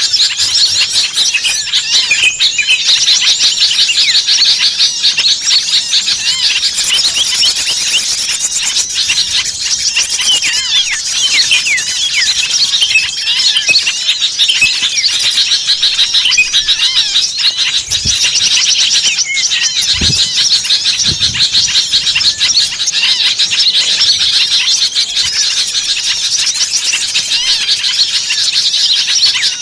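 A dense, unbroken chatter of many small songbirds chirping and trilling over one another, a bird-lure recording of noisy, agitated small birds. A few soft low thumps come in around two thirds of the way through.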